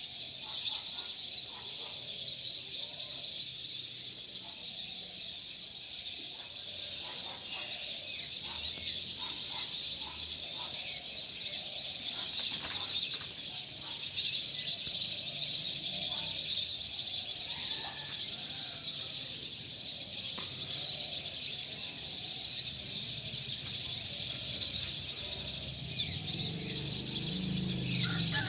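Many small birds chirping together in a dense, continuous high-pitched chorus, with scattered short lower calls standing out now and then.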